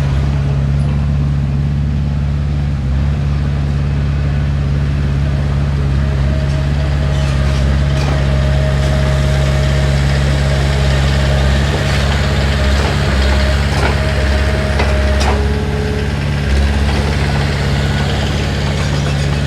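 Heavy diesel engine of earthmoving machinery running steadily with an even low rumble. A faint thin whine sounds from about six seconds in until about fifteen, and a few light knocks come through.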